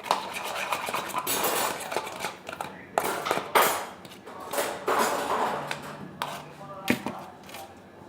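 Kitchenware clattering and scraping, a bowl and utensils being handled in a run of irregular knocks and scrapes with a couple of sharper strikes.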